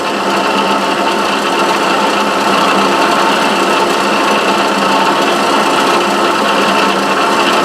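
Milling machine running steadily, a two-flute end mill cutting a pocket in a Delrin block.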